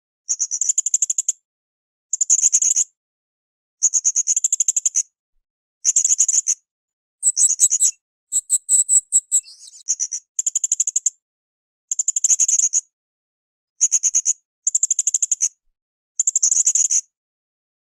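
Blue-crowned hanging parrot (srindit) calling in shrill, very high-pitched rapid trills, each burst about a second long and repeated roughly every two seconds. About seven seconds in comes a more varied twittering phrase that slurs downward.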